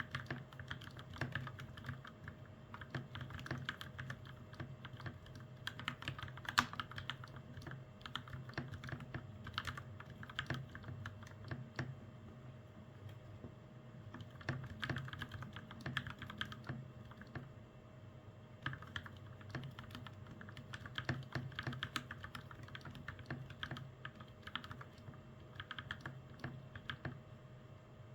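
Continuous fast typing on a custom mechanical keyboard with Gateron Milky Yellow Pro switches and double-shot PBT keycaps, built for a 'creamy' sound. The key presses come in an uneven, steady stream over a low steady hum.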